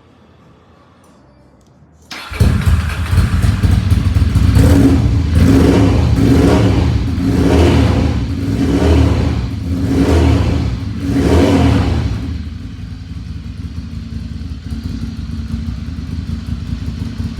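Ducati Monster 696 Plus air-cooled V-twin with SP Engineering end cans, started about two seconds in. It is blipped through about seven sharp revs, then settles to a steady, lumpy idle. The exhaust is loud: "rather a lot of noise" for a 696.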